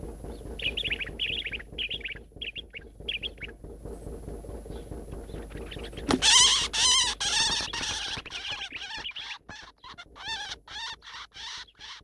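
Birds calling: quick high chirps in the first few seconds, then from about six seconds a bird giving loud, harsh, wavering calls, repeated in short bursts to the end.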